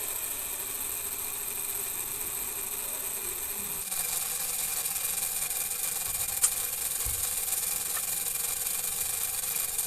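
Small DC motor of a homemade toy electric water pump running with a steady buzzing whine, getting a little louder about four seconds in, with a single click a couple of seconds later.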